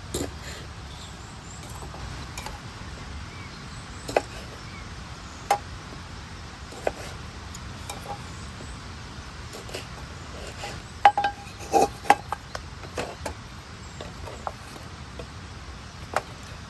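Cookware and utensils knocking and clinking now and then over a steady low background noise, with a quick cluster of louder ringing clinks about two-thirds of the way through.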